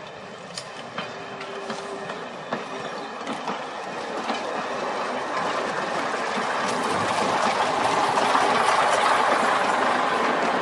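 Class 101 diesel multiple unit approaching and running past close by at low speed, with sharp wheel clicks over the rail joints at first and a rolling rumble that grows louder as the cars pass.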